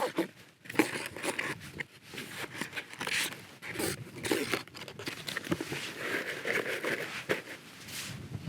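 Camping cook kit being handled and set out inside a tent: irregular rustling and crinkling with small clicks and knocks.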